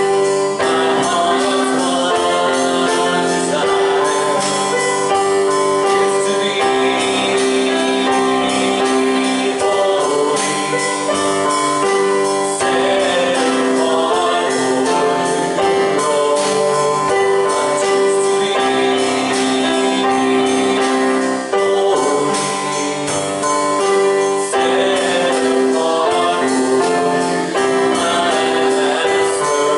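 Worship music: a slow song played on keyboard with sustained chords changing every few seconds, a light steady beat and singing over it.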